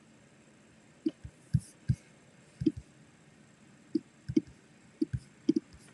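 A series of about a dozen short, irregular clicks over a quiet background, several coming in quick pairs.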